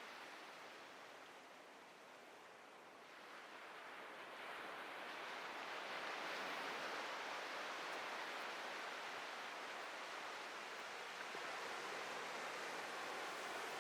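Ocean surf on a beach: a steady wash of breaking waves that eases, then swells up again about three to five seconds in as a wave breaks and stays full.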